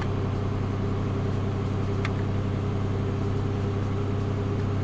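2008 Pontiac Grand Prix's 3.8-litre Series III V6 idling steadily shortly after a cold start at 31 °F, with one faint click about two seconds in.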